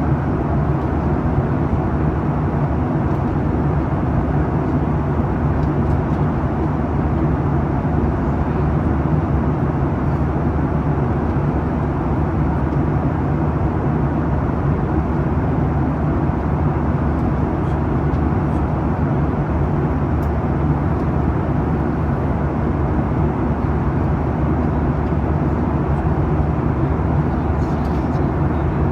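Steady cabin noise of a Boeing 737-800 in flight: the drone of its CFM56-7B turbofans and the rush of air along the fuselage, heard from a window seat near the engine, with no change in level.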